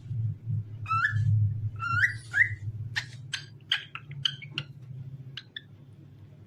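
Pet cockatiel whistling: three rising whistled notes, then a quick run of short, sharp chirps that trails off, over a steady low hum.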